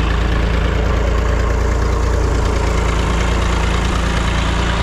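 Vehicle engine running steadily at idle, an even low drone with no revving or knocks.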